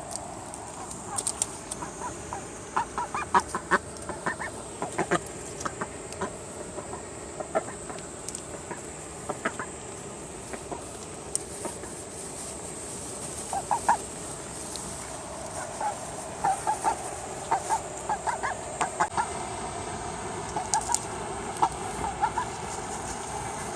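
Ducks giving short, soft clucking calls in quick runs over a steady hiss of rain.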